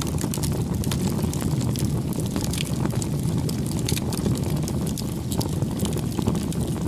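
Wood campfire burning, with frequent small crackles and pops over a steady low rush of the flames.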